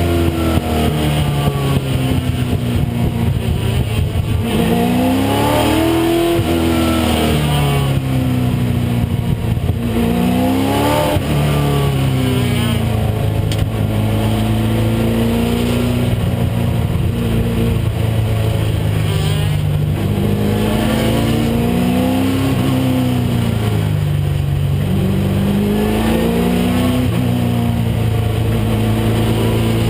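A 1996 Ford Mustang race car's engine under racing load, its pitch climbing and dropping again and again through the gears and corners.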